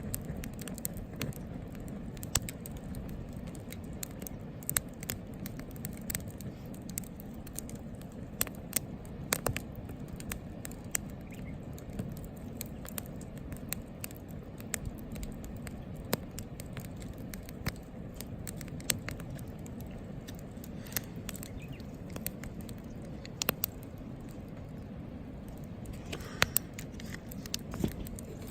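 Wood fire in a Picogrill folding fire pit, crackling and popping irregularly over a steady low rumble.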